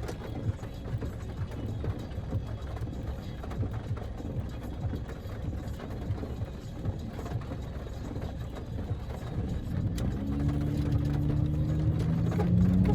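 Car cabin noise of a Daihatsu Move L150S on the move, a steady low road rumble. About ten seconds in, the EF-VE three-cylinder engine's note comes up and rises slightly as the car accelerates.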